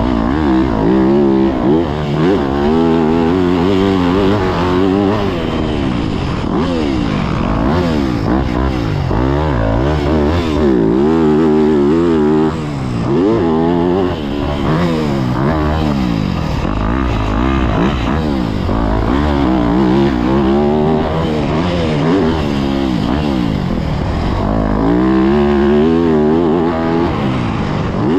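2023 Yamaha YZ250F's 250 cc four-stroke single-cylinder engine being ridden hard, its pitch climbing and falling again and again as the throttle is opened and closed.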